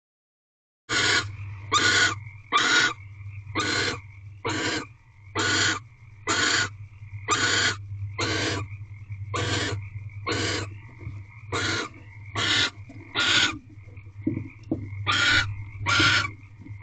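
Barn owl in the nest box giving harsh hissing snore calls, repeated about once a second, starting about a second in. Under the calls runs a steady high-pitched background tone and a low electrical hum.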